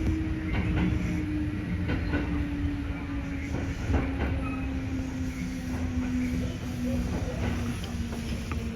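Kintetsu electric train running, heard from on board: heavy rumble with wheels clicking over the rail joints, and a motor whine that slowly falls in pitch as the train slows. The sound cuts off suddenly at the very end.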